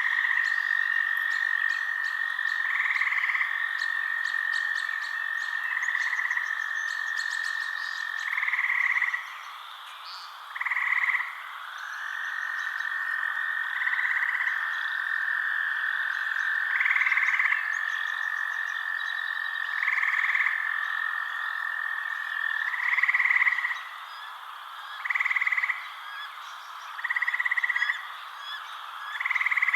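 Night chorus of frogs and insects: a long, steady high trill that breaks off about nine seconds in and returns a few seconds later, with louder calls about a second long repeating every two to three seconds. Faint high ticking runs over it during the first third.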